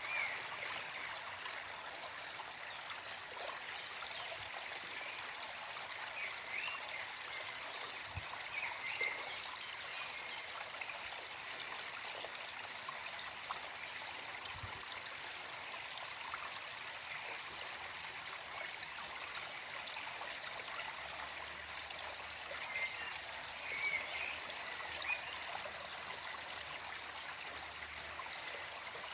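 Gentle forest stream flowing and trickling in a steady rush, with small birds chirping briefly now and then.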